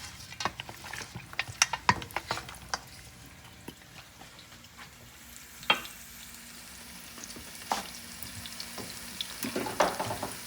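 Onions frying in oil with a steady sizzle, and a utensil clicking and scraping against the pot as they are stirred, the clicks thickest in the first three seconds and then scattered.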